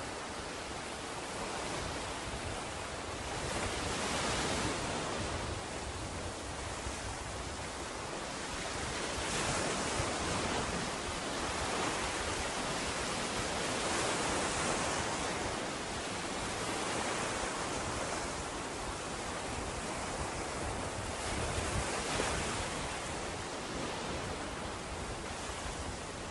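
Surf breaking and washing up a beach, a steady hiss that swells and eases every few seconds as waves come in.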